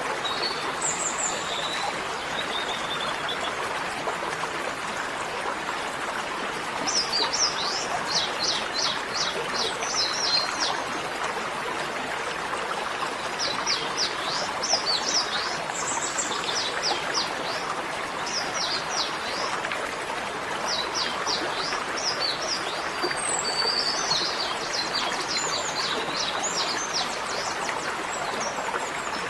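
Birds chirping in rapid trilled runs of quick downward-sweeping notes, coming and going in several bursts over a steady rushing hiss like running water.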